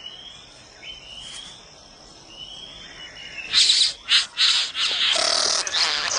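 Satin bowerbird courtship calls: a few faint rising whistles, then from about three and a half seconds in a run of loud, harsh rasping, buzzing calls.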